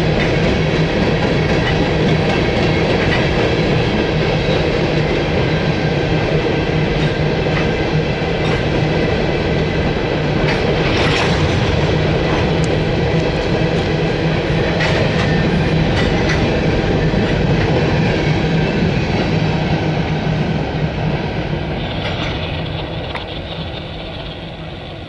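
Freight train of steel coal hopper cars rolling past: a steady rumble of wheels on rail with clicks over the rail joints and a few brief high wheel screeches. It fades over the last few seconds as the end of the train goes by.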